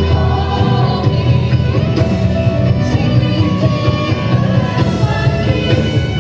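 Live worship music: a band playing a song with singing.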